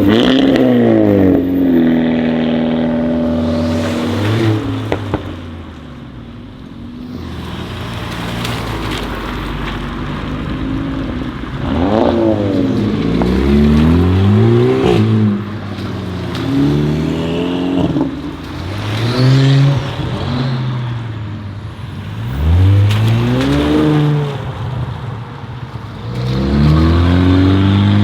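Modified sports car engines revving hard and accelerating, the exhaust note sweeping up and falling back over and over. There is a quieter stretch about six seconds in.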